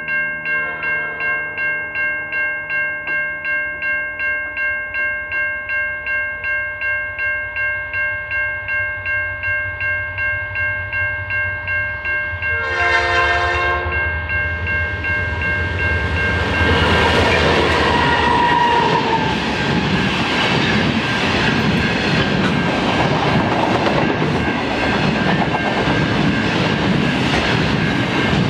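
Level crossing bells ring steadily with about three pulses a second. About halfway through, a diesel locomotive sounds one short horn blast. The diesel-hauled train then passes close by, with engine rumble and steady wheel noise from the wagons over the rails.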